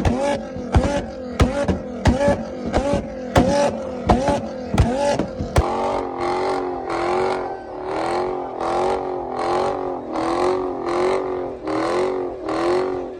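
A performance car's engine is revved in quick repeated blips, rising and falling about every two-thirds of a second. For the first half, a sharp exhaust bang comes with each blip, typical of a 2-step launch limiter. The bangs then stop and the rhythmic revving carries on.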